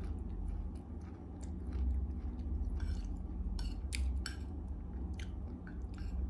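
A person chewing a mouthful of food close to the microphone, with several short, sharp clicks in the second half.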